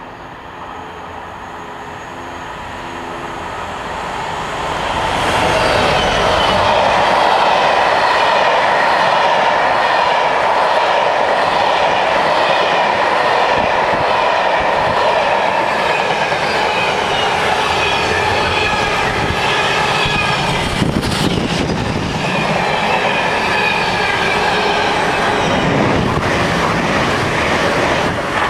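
Freightliner Class 66 diesel locomotive approaching, its engine note growing louder over the first few seconds, then passing close by with a long train of container flat wagons: a loud, steady rush of wheels on rail with a rhythmic clickety-clack over the rail joints.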